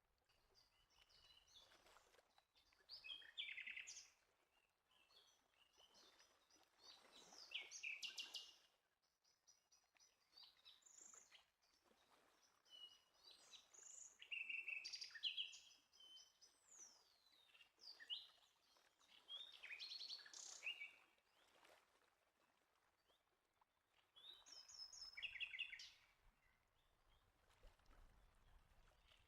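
Faint birdsong: short separate phrases of high chirps and quick trills, coming every few seconds, with one downward-sliding whistle about midway.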